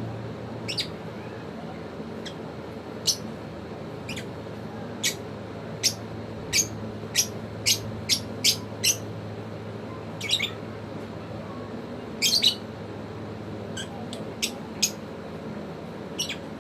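African lovebirds giving short, sharp, high-pitched chirps at irregular intervals, some in quick runs of three or four, over a low steady hum.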